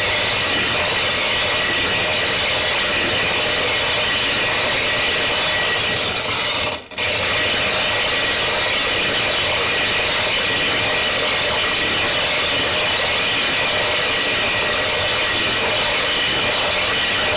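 Silicon carbide dressing stone being rubbed over a sharpening stone to flatten it: a steady, gritty abrasive scraping that breaks off briefly about seven seconds in.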